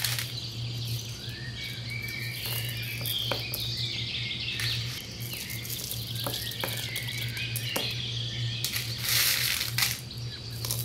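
Small birds chirping and twittering over a steady low hum. There are a few light clicks, and a short hissing rush comes about nine seconds in.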